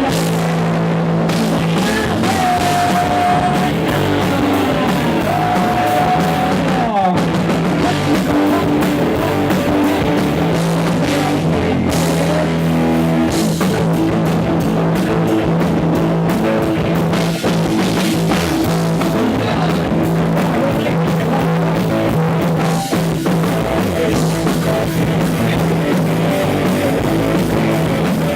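Loud rock music with a drum kit and guitar playing steadily.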